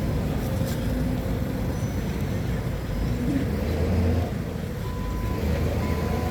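Forklift engine running with a steady low rumble; about five seconds in, its reversing alarm starts beeping, about once a second.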